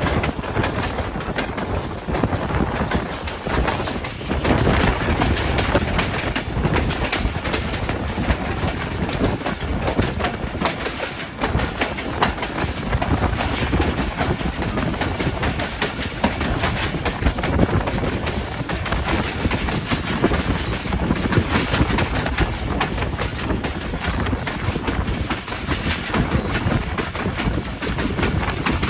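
Passenger train running at speed: a steady rumble of wheels on track with a rapid clatter of ticks as the wheels pass over rail joints.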